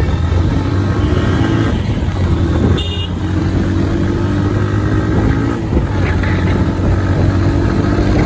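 Motorcycle engine running steadily while riding in traffic, with a short high-pitched horn toot about three seconds in.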